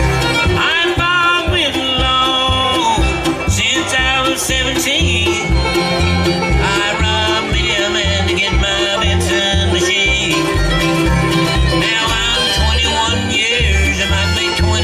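Live bluegrass band playing an instrumental break: banjo and fiddle leading, with guitar, over a steady pulsing bass beat.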